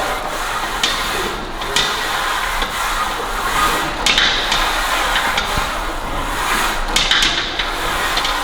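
Gym background noise, with scattered sharp clanks and knocks of metal weight equipment.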